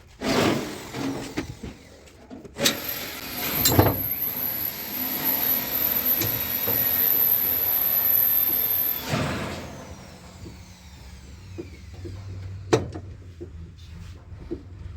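An electric power tool runs steadily with a high whine for about six seconds during car body repair, then is switched off and spins down with a falling whine. Sharp knocks sound at the start and again near the end.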